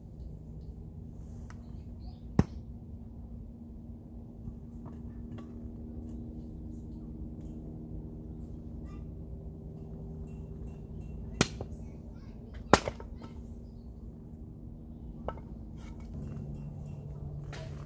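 Three sharp knocks or cracks, with a few fainter clicks, over a steady low hum.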